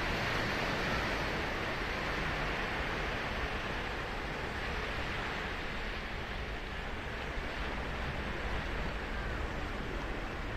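Ocean surf washing onto a sandy beach: a steady rush of breaking waves, a little fuller in the first couple of seconds and easing off in the middle.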